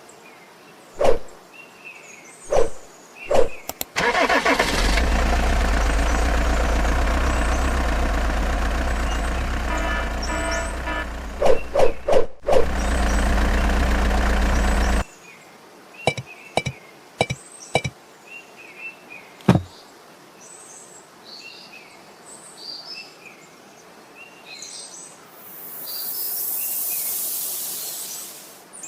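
Scattered clicks and knocks, then a motor runs steadily for about ten seconds and cuts off suddenly. Afterwards birds chirp among a few more knocks, and a hiss swells and fades near the end.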